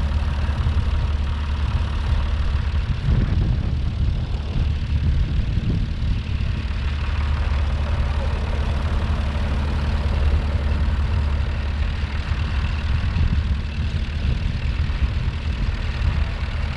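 Vintage tractor engine running steadily with a constant low hum.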